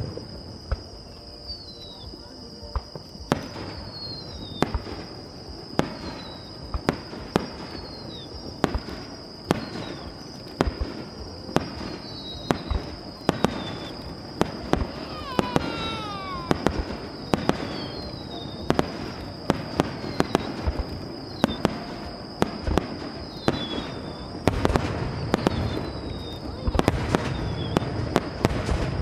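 Fireworks display: aerial shells bursting in quick succession, about one sharp bang a second, with short falling whistles between the bangs and a cluster of longer falling whistles about halfway through.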